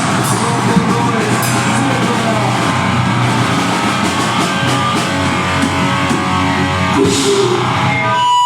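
Deathgrind band playing live: distorted guitars, bass and a drum kit in a loud, dense wall of sound that cuts off abruptly near the end.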